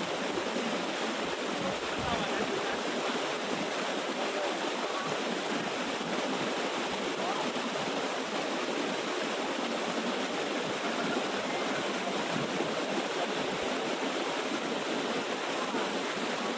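Water of a small waterfall rushing and splashing, a steady, even noise that does not change.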